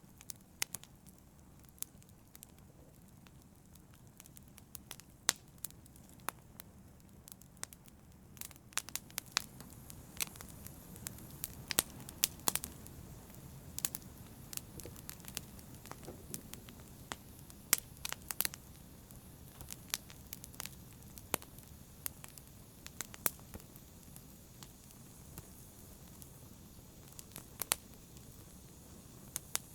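Fire crackling in a fireplace: irregular sharp pops and snaps over a low, steady rustle of flames, coming thickest around the middle.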